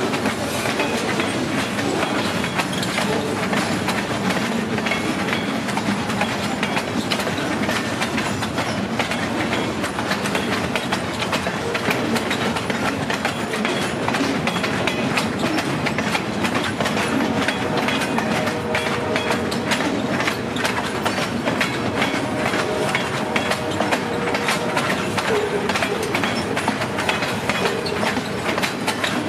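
A freight train's boxcars rolling past, steel wheels clicking steadily over rail joints over a continuous rumble.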